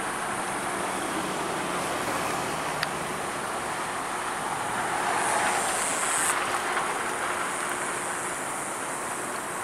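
A 2012 Ford Focus being driven, with steady road and engine noise heard from inside the cabin. A single click comes near 3 s in, and the noise swells and brightens around 5 s in before cutting off sharply about a second later.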